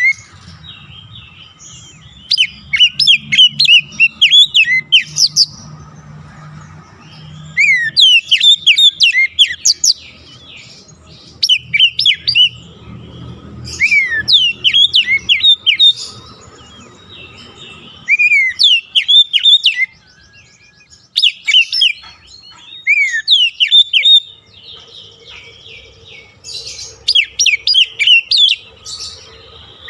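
Oriental magpie-robin (kacer) singing in loud bouts of rapid, sharp whistled notes that sweep downward, each bout lasting one to three seconds and coming again every few seconds after a short pause. It is a lure recording used to stimulate a caged kacer to sing.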